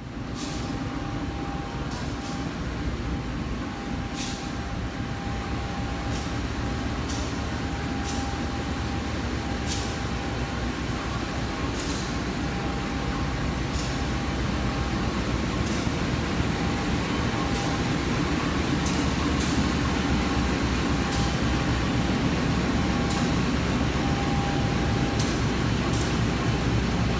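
Steady mechanical rumble of a standing passenger train, with a constant high hum and short sharp ticks every second or two, growing slowly louder.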